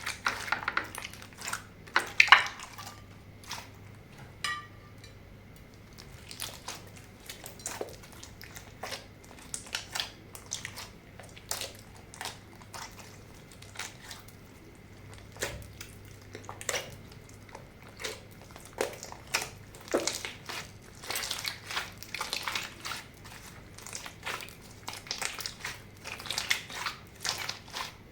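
Hands mixing and squishing slime: a continuous run of irregular wet clicks, pops and crackles, louder and denser in places.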